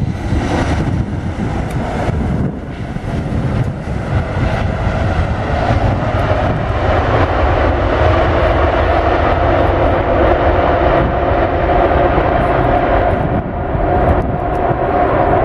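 Airbus A380's four jet engines during its landing: a loud, steady rumble that swells over the first several seconds, with a steady whine coming up over it.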